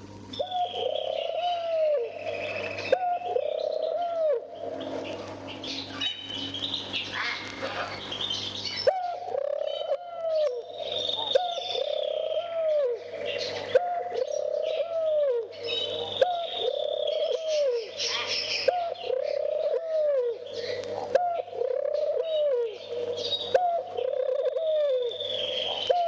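Turtle doves courting: a run of repeated coos, about one a second, with higher chirps above them. It plays over the crackle and low hum of an old vinyl record.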